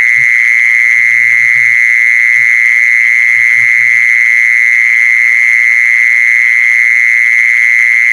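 A continuous, steady, high-pitched trill, played as a call to lure a female khmol. Faint short low croaks come now and then underneath it.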